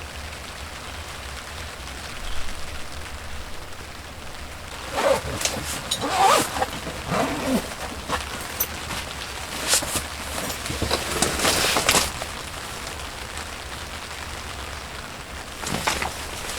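Steady rain falling, with bursts of rustling and clicking noise from about five to twelve seconds in and again briefly near the end.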